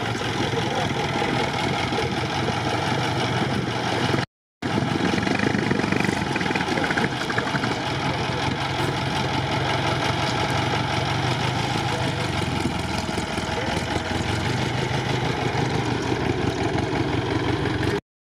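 Engine of a vintage open racing car running steadily at low speed as the car rolls slowly past, with a brief break about four seconds in.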